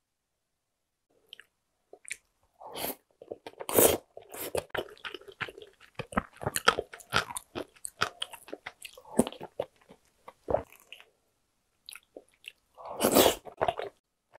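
Close-up mouth sounds of a person eating spicy tteokbokki: wet chewing with many small clicks and crackles, and two louder bursts, one about four seconds in and one near the end. It starts after a short quiet stretch.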